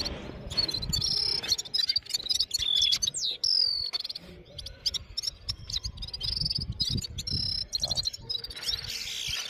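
Red-fronted serin singing: a continuous run of rapid, high twittering notes and trills, with a few quick falling whistles.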